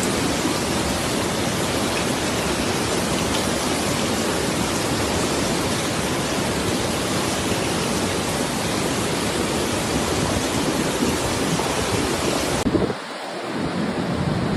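Torrential rain pouring down in a steady, loud hiss. About thirteen seconds in it cuts off abruptly to a quieter recording with low rumbling near the end.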